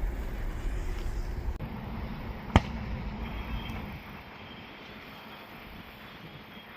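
Airliner engine rumble at takeoff, dropping at about four seconds in to a quieter steady hiss. A single sharp click about two and a half seconds in is the loudest sound.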